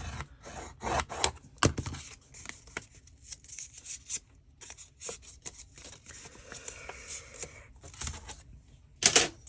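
Paper and small craft tools handled on a work table: rubbing and rustling of paper with scattered sharp clicks and taps, and a louder scrape or rustle about nine seconds in.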